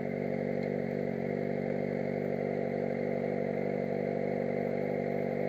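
Yamaha XJ6 Diversion F motorcycle's inline-four engine idling steadily, its note even and unchanging.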